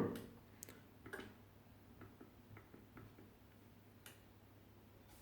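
Several faint, irregularly spaced clicks: the push-buttons on the SILVERCREST digital kettle's base being pressed to set the temperature.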